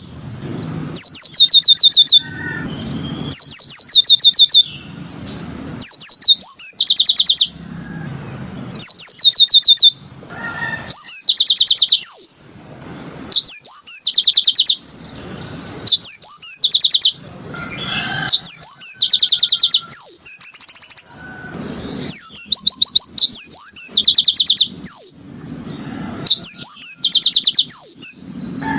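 Yellow-fronted canary (Mozambique canary) singing: repeated phrases of rapid, high, downward-sliding notes, about one phrase every two seconds, over a thin steady high tone.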